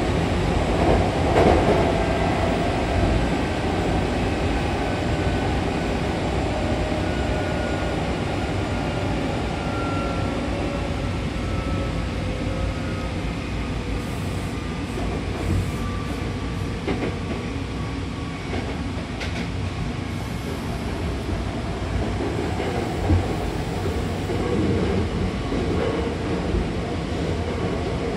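Hankyu Takarazuka Line commuter train running, heard from inside the car beside the closed doors: a steady rumble of wheels on rail with faint clatter. A faint whine glides slowly down in pitch partway through.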